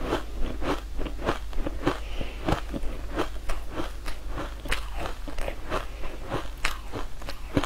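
Close-miked chewing of a crunchy, crumbly green food: quick crisp crunches and crackles several times a second.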